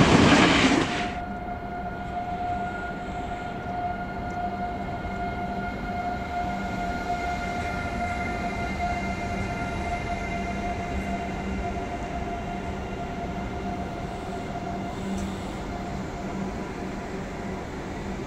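Loud intro music cuts off about a second in. After that, a Renfe passenger train standing at the platform hums steadily, its on-board equipment giving a few held whining tones over a low rumble.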